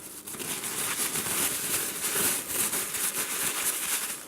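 Plastic bags crinkling and rustling as they are handled, a continuous crackle of many small clicks.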